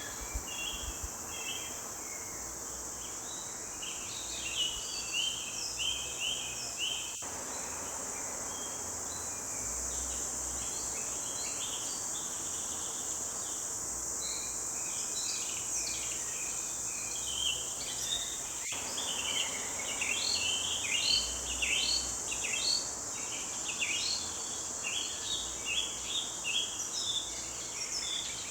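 Several small songbirds chirping and singing over a steady high-pitched insect drone. The birdsong grows busier after about the halfway point.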